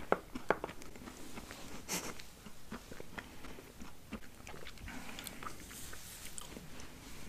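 Close-miked chewing: a person's mouth working food, with many small wet clicks and smacks, the sharpest just after the start and about two seconds in.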